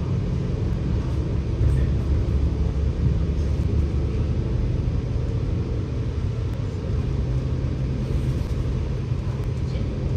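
Scania K94UB bus engine running under way, heard from inside the bus as a steady low drone whose note shifts a few times.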